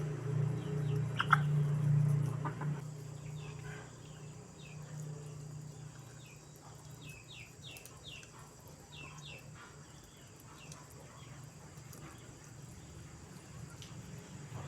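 Chickens calling, with many short high chirps through the middle, over a low steady hum that fades after about three seconds.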